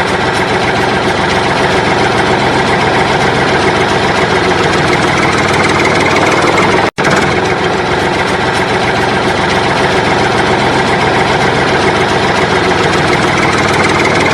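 Engine idling steadily, with an even rumble that drops out for an instant about seven seconds in and then resumes unchanged.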